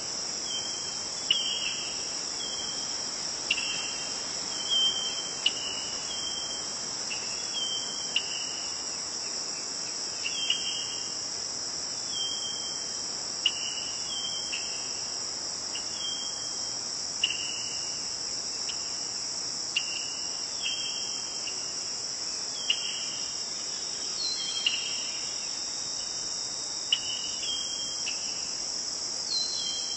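Crickets chirping in a steady, high-pitched chorus, with short separate chirps repeating every second or two over it.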